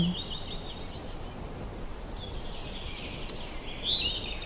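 Faint bird chirping: short, quick twittering phrases, with one run near the start and another about three to four seconds in, over a steady background hiss.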